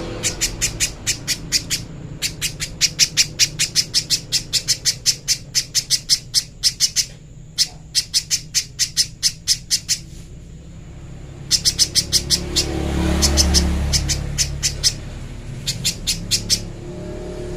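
Spiderhunter (pijantung pisang) calling a fast series of sharp, high notes, about five a second, in runs of several seconds broken by short pauses, over a low background rumble.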